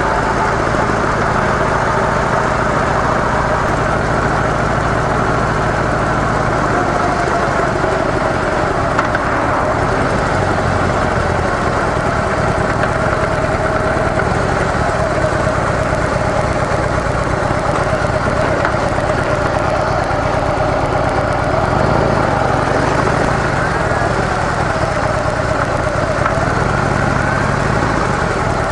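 Harley-Davidson CVO Softail Deluxe's Twin Cam 110 V-twin on stock mufflers running steadily under way, its note shifting a couple of times, with wind noise over it.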